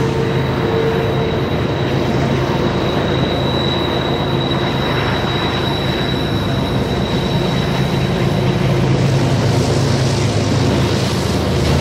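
Freight train running steadily: a continuous low rumble with a thin, steady high whine over it.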